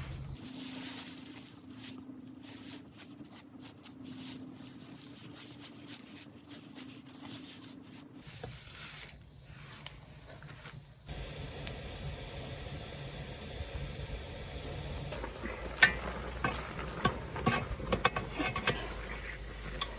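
Food cooking over a wood fire, hissing steadily, with sharp crackles and pops in the last few seconds.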